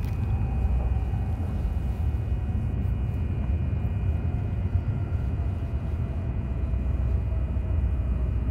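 Joetsu Shinkansen bullet train running at speed, heard inside the passenger cabin: a steady low rumble, with a faint thin whine that slowly falls in pitch and a steady high tone above it.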